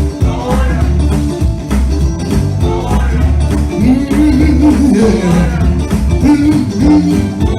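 Gospel band music with a heavy bass line, drums and guitar. About four seconds in, a melody line rises and falls in pitch.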